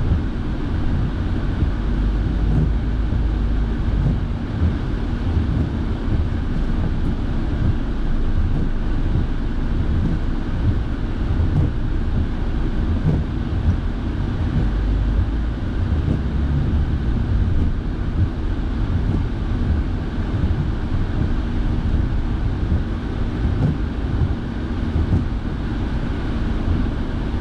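Steady in-cabin noise of a car driving, a continuous low rumble of engine and tyres on wet road with the heater fan blowing.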